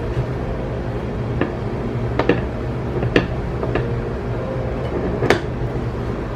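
About six light clicks and knocks at uneven intervals, like things being handled and set down, over a steady low hum.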